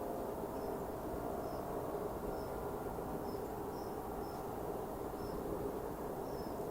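Short, high chirps from a small bird, repeated roughly once or twice a second, over a steady low outdoor rumble.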